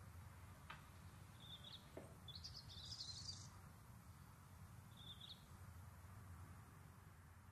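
Faint birdsong: a short burst of high chirping about two seconds in and a briefer one near five seconds, over a low steady background hiss.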